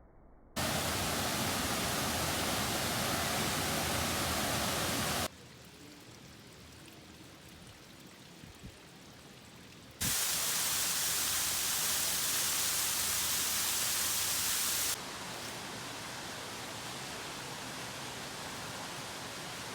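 Rushing water, a steady hiss of streams and waterfalls, changing abruptly in loudness and brightness three times as one water scene cuts to the next.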